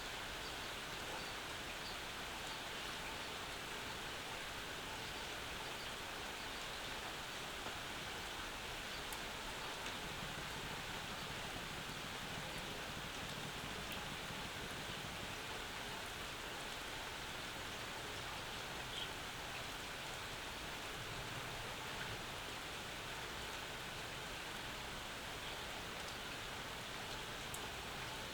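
Steady summer rain falling, with drops pattering on nearby surfaces and an occasional faint drip or tick.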